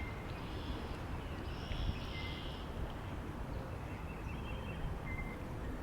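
Steady wind noise with a low rumble, and faint scattered bird calls, a few short high calls spread through it.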